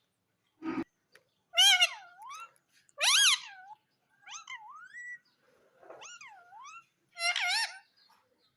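Indian ringneck parrot vocalising: a series of about five short, warbling calls that sweep up and down in pitch, with a brief low thump just before the first.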